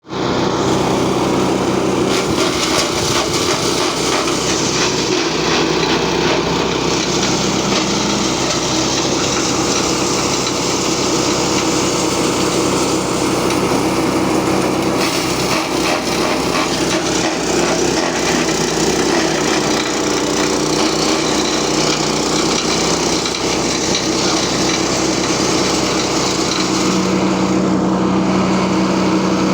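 Small petrol engine driving a feed chopper (chaff cutter), running steadily while fodder is fed in and cut, making a dense shredding hiss over the engine note. Near the end the cutting noise eases off and the engine's steady hum stands out.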